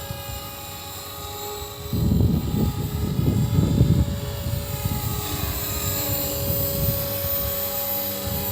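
Walkera V450D03 electric RC helicopter hovering and manoeuvring, its motor and rotor giving a steady whine. About two seconds in, gusts of wind start buffeting the microphone with a low rumble, loudest for a couple of seconds, then weaker.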